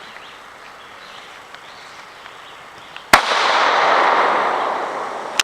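A single pistol shot about three seconds in, followed by a loud hiss that slowly fades over the next two seconds.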